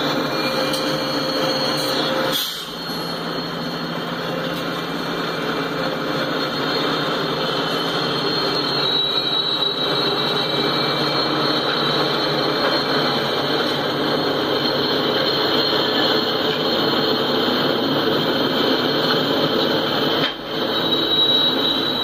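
Freight train passing close by: diesel locomotives rumbling past, then tank cars rolling over the rails, with a steady thin high squeal from the wheels over the rumble.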